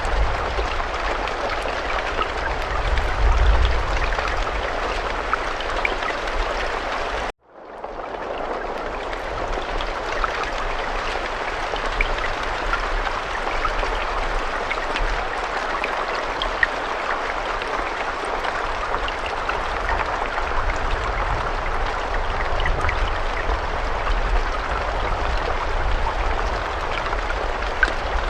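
Steady rain falling, a dense hiss with scattered ticks of individual drops and a low rumble underneath. About a third of the way through, the sound cuts out abruptly for a moment and fades back in, like a splice in a looped recording.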